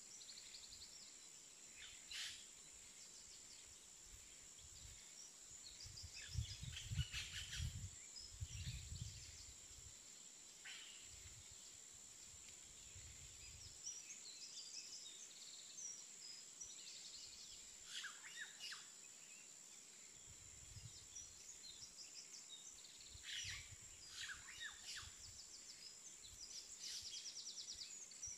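Faint birds chirping now and then over a steady high thin tone. There are soft low thumps, loudest about seven seconds in and again near the end.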